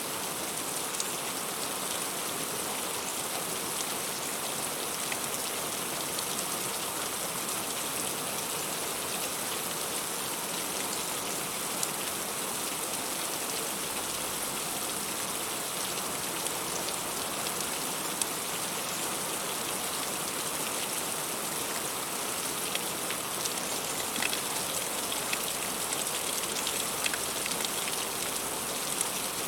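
Heavy rain falling steadily: a dense even hiss with many sharp drop taps scattered through it.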